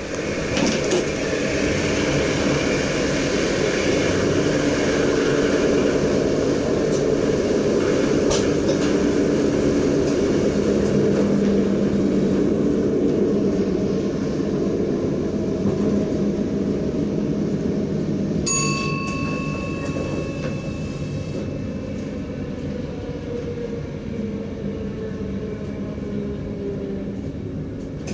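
DDZ double-deck electric train running on the rails, a steady rumble with a few clicks, heard from the driver's cab; it grows quieter over the second half. About two-thirds of the way through, a brief steady electronic tone sounds for a few seconds.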